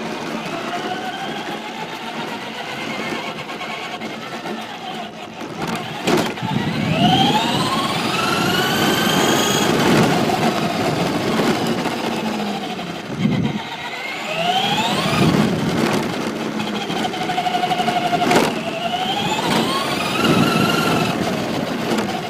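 Traxxas Slash Raptor SVT radio-controlled truck's electric motor whining and climbing steeply in pitch each time it accelerates, several runs in a row, over steady tyre noise on pavement. A couple of sharp knocks cut in, one about six seconds in and one near the end.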